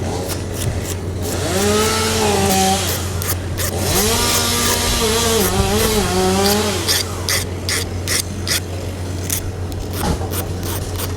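Chainsaw outside, revved up twice, each burst lasting a couple of seconds with its pitch rising at the start and dropping off at the end, over a steady low hum. Sharp scraping clicks before and after the bursts.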